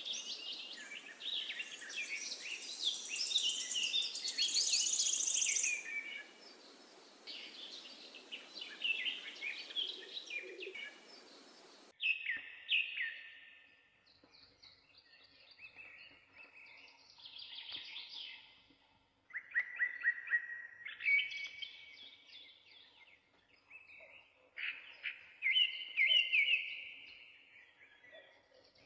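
Birds chirping and singing in quick, repeated high trills and whistles, over a steady hiss that cuts off abruptly about twelve seconds in.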